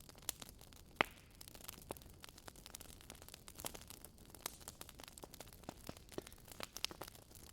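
Wood fire crackling in a fireplace: a soft hiss with irregular small pops and snaps, one sharper pop about a second in.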